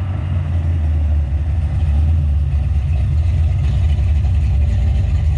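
A 1972 Plymouth Scamp's bored 318 V8 with a Comp Extreme Energy cam and Holley carb running with a loud, steady, deep rumble.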